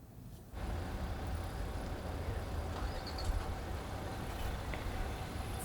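Steady low rumble of a moving car, starting abruptly about half a second in.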